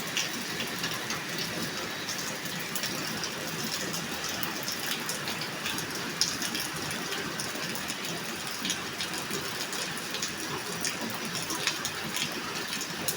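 Steady rain falling, an even hiss dotted with many small sharp drop impacts.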